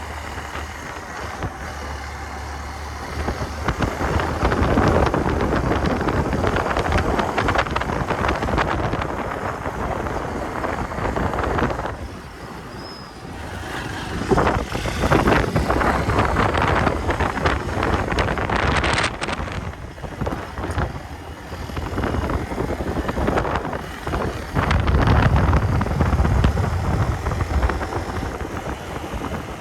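Wind buffeting the microphone over a motorcycle running along a rough track, the noise rising and falling as the bike moves, with a brief lull about twelve seconds in.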